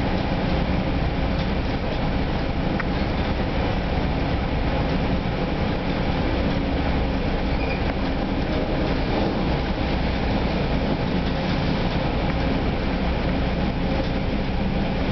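Steady running noise heard from inside a bi-level NJ Transit commuter coach moving at speed: the deep rumble of wheels on the rails, even throughout with no changes.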